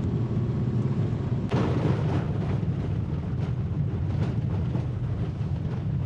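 Vehicle driving on a rough gravel road: a steady rumble of engine and tyres, with a sharp knock about a second and a half in and a few lighter knocks after it as the vehicle is jolted over the road surface.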